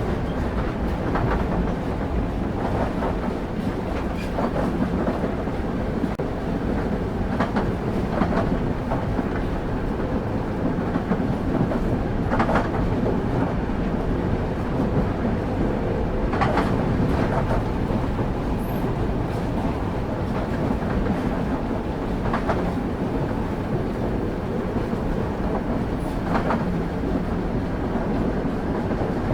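Express train rolling along on steel rails: a steady low rumble of wheels and carriage, with a sharp click of wheels over rail joints every few seconds.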